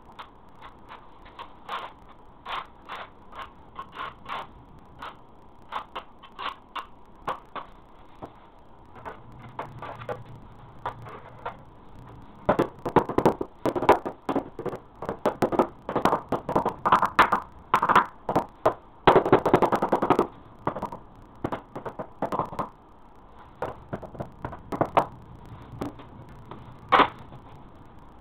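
A series of sharp knocks and taps of a tool on a hard surface. They are spaced irregularly at first, then come thick and fast for about ten seconds in the middle, with one loud knock near the end.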